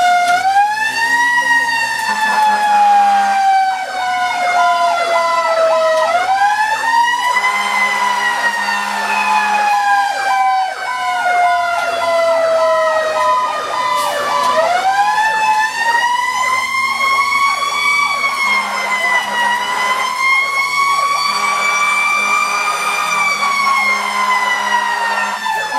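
Fire truck siren on an emergency response: a wailing tone that climbs quickly and then falls slowly, three times over, with a faster warbling siren pattern layered underneath.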